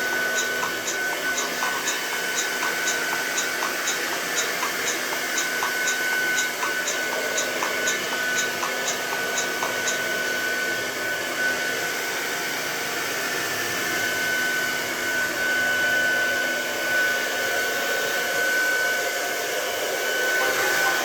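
Hair dryer blowing steadily with a thin constant whine above its rush of air. A faint regular ticking, about twice a second, runs through the first half.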